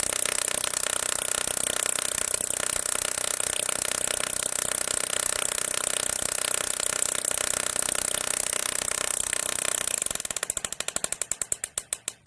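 Modified electric fan running with a rapid, ratchet-like clatter; about ten seconds in the clatter slows into separate clicks, spaced further and further apart and getting quieter, as the fan winds down.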